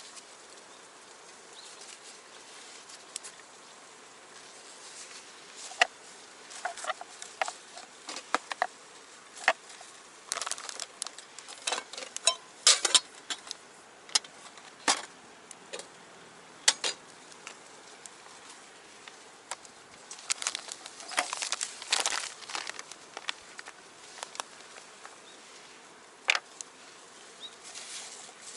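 Small wood fire in a stainless box stove, crackling with irregular sharp snaps and pops over a faint steady hiss. The snaps come thickest in the middle of the stretch, with a dense cluster about two-thirds of the way through.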